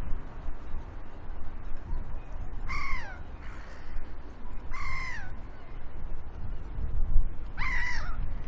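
A large bird gives three short cries about two seconds apart, each falling in pitch, over a low steady rumble.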